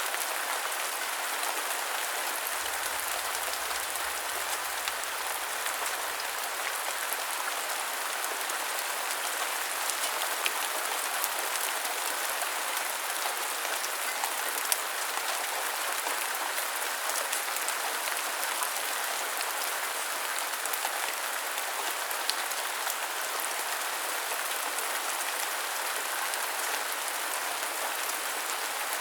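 Steady rain falling, an even hiss with many scattered sharper drop ticks.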